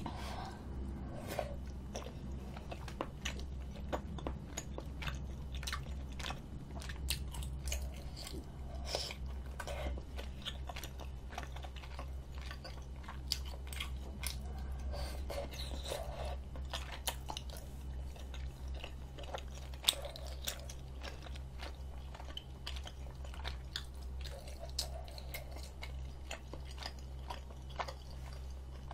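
Close-miked chewing and biting of chewy tteokbokki rice cakes in spicy sauce: a constant run of wet mouth clicks and smacks, with a steady low hum underneath.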